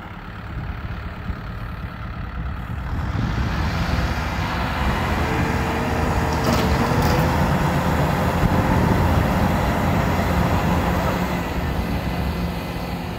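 Kubota M6040SU tractor's diesel engine running, building up from about three seconds in and staying loud and steady, working hard as the mired tractor tries to pull free of deep mud.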